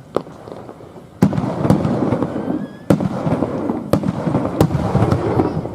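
Aerial fireworks bursting: about five sharp booms over a dense crackling that starts with a loud burst a little over a second in and dies away near the end.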